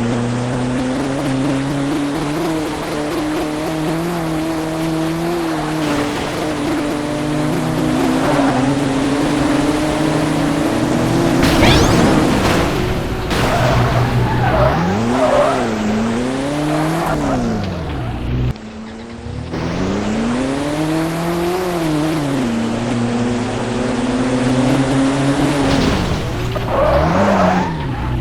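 Car engine sound revving up and down again and again, with tyre squeals, mixed with music. The sound cuts off abruptly once about two-thirds of the way through and then picks up again.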